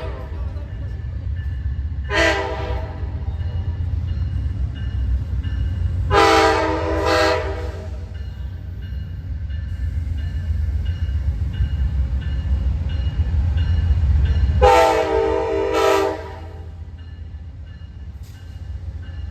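A locomotive's multi-chime air horn sounds repeated blasts over the steady rumble of a passing train. The blasts come just after the start, about 2 s in, twice around 6 to 7 s, and twice around 15 to 16 s, and are the warning for the grade crossings. The rumble drops away sharply about 16 s in.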